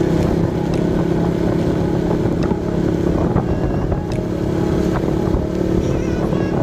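Motorcycle engine running at a steady speed, with wind rumbling on the microphone.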